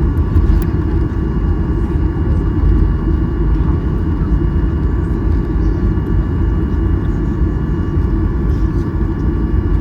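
Cabin noise of a Boeing 737-800 taxiing: the CFM56-7B engines at idle give a steady deep rumble, with a faint steady whine of several high tones above it.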